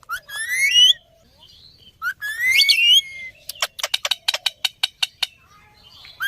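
A parrot gives two loud, rising whistles about a second apart, each lasting about a second. They are followed by a fast run of sharp clicks.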